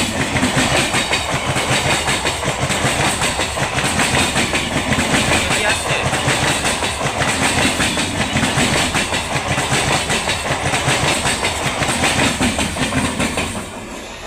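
Electric multiple unit local train passing close by at speed, its wheels clattering rapidly over the rail joints in a steady, loud run that falls away suddenly near the end as the last coach clears.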